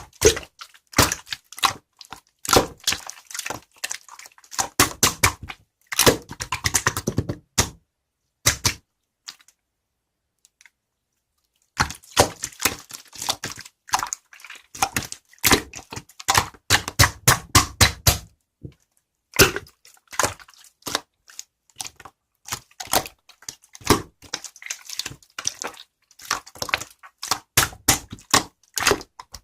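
Computer keyboard typing: fast runs of clicking keystrokes, which stop for about three seconds around the middle before starting again.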